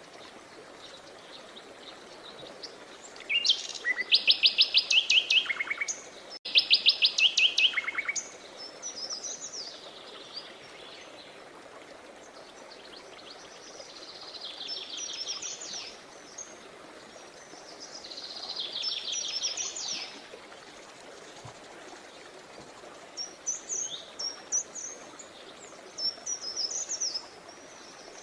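Songbirds singing: several loud trills of rapidly repeated high notes, each lasting about two seconds, then a run of quick, short chirps near the end, over a faint steady rush of water.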